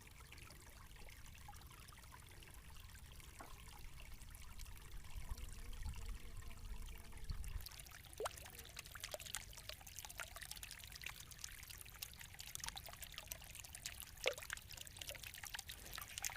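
Faint trickling and pouring water over a low steady rumble. It becomes busier with small splashes and drips from about halfway through.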